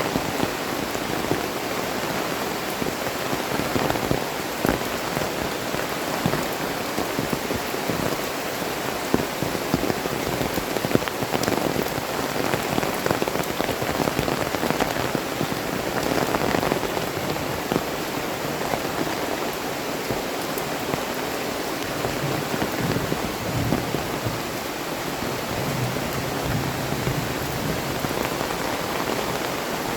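Heavy tropical rain falling steadily, with many individual drops striking close by.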